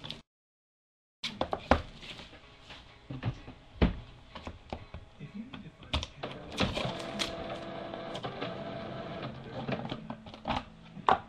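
Trading card box and packs being opened and handled, with irregular sharp clicks and crinkles of wrappers and cards. The sound drops out to dead silence for about a second near the start.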